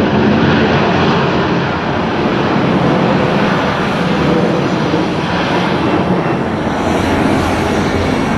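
Jet airliner engines running loud and steady, a dense roar that grows a little brighter near the end.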